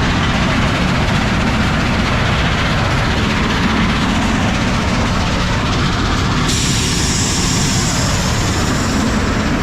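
Heavy diesel truck under way with an empty trailer: a steady, loud engine and road rumble. About six and a half seconds in, a higher hiss joins it.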